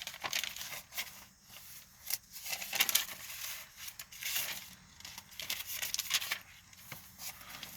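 Thin paper Bible pages being leafed through, rustling in short bursts about every second.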